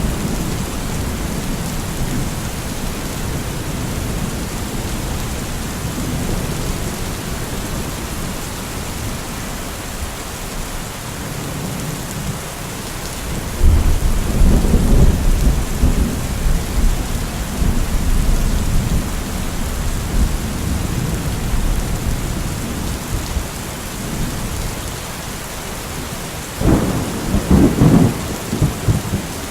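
Steady rain falling with rolls of thunder: a loud thunder rumble breaks in about halfway through and slowly fades, and a sharper, closer clap of thunder follows near the end.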